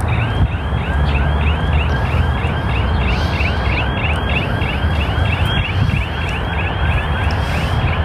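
Car alarm sounding: a fast, even run of short falling chirps, about three a second, over a steady low rumble.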